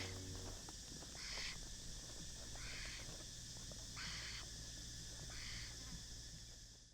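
Four short, soft bird calls about a second and a half apart, over a faint steady outdoor background.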